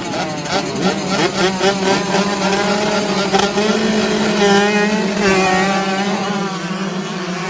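Motocross dirt bike engines revving up and down over and over, several overlapping, as bikes ride the track.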